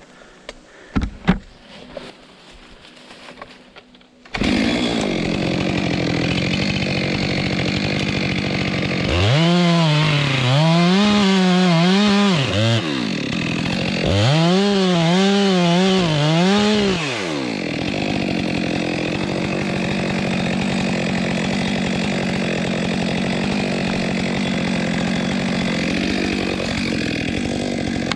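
Two-stroke chainsaw cutting through a fallen log. After a few faint knocks it comes in suddenly about four seconds in. Its pitch wavers up and down twice as the saw labours in the cut, then it runs steady.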